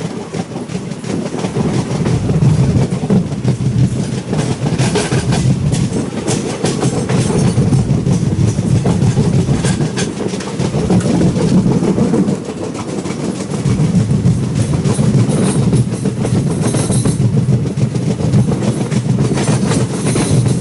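Passenger train running at speed, heard from a carriage window: a steady rumble of wheels on rails, with a few sharp clicks now and then.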